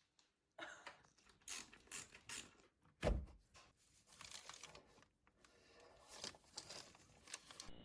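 Irregular handling noises: short rustles and clicks, with one heavier thud about three seconds in.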